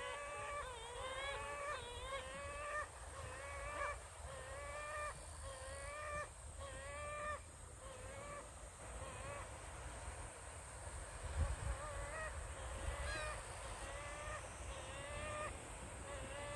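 A bird calling over and over, about once a second, with short nasal honking calls that fade out partway through and return near the end. A low rumble runs underneath, with one louder bump about eleven seconds in.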